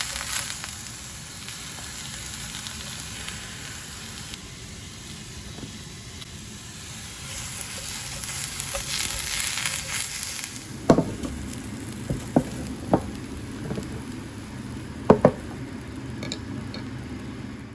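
Food sizzling in hot oil, a steady hiss, with several sharp clicks and knocks from about eleven seconds in.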